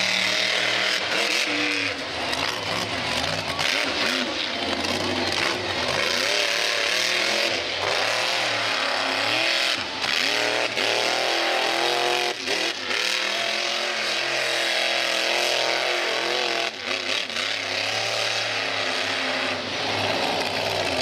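Monster truck engine revving hard, its pitch rising and falling again and again with the throttle, with a few brief drops.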